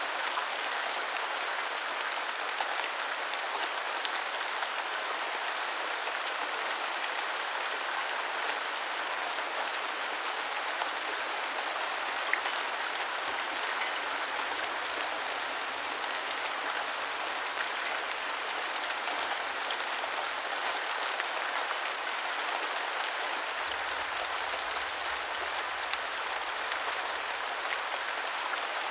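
Steady rain falling and pattering on a surface, a dense even hiss of many small drop ticks.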